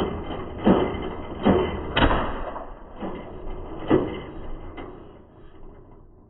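1995 Polaris Trail Boss 250's single-cylinder two-stroke engine catching briefly and backfiring violently: a string of loud sharp bangs in the first four seconds, the running fading out near the end. The backfiring is a sign of a serious fault, which the owner hopes is severe carburettor trouble.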